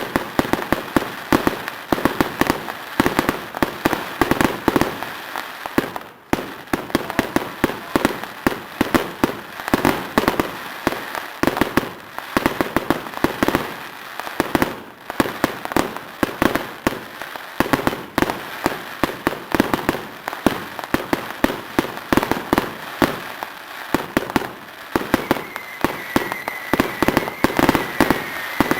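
Fireworks display going off continuously: rapid bangs and crackles, several a second with no real pause. Near the end a high thin whistling tone joins in, sliding slightly down in pitch.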